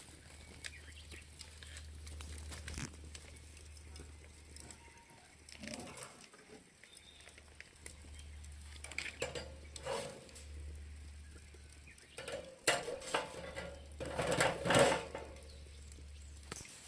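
Metal parts of a camp fire grill clinking, knocking and scraping as they are handled and fitted together, with scattered clicks and a busier clatter about three-quarters of the way through, over a steady low hum.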